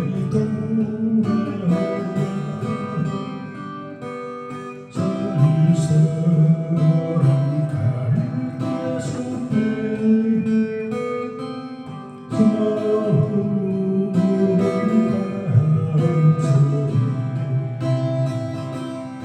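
Acoustic guitar playing a slow melody over plucked and strummed chords, phrase by phrase, with new phrases swelling up about five and twelve seconds in and fading after each.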